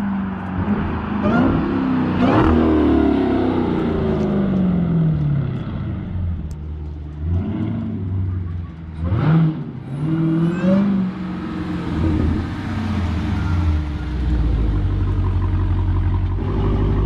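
Supercharged 6.2-litre Hemi V8 of a Dodge Charger SRT Hellcat Redeye with the mid mufflers deleted, accelerating hard and shifting, its pitch climbing and dropping several times. It settles into a steady idle about fourteen seconds in.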